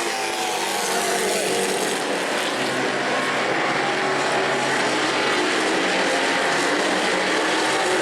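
A pack of racing trucks running at speed on a short oval track. The engines blend into a continuous, layered drone whose pitch shifts a little as they pass.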